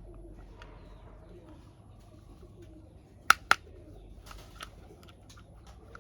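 Two sharp clicks about a fifth of a second apart, just past the middle, then a few fainter clicks, with a bird cooing faintly in the background.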